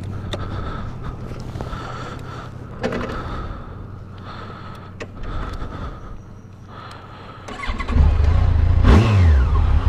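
Motorcycle engine idling steadily, then revving up sharply about eight seconds in, with a quick rise and fall in pitch a second later as the bike gets under way.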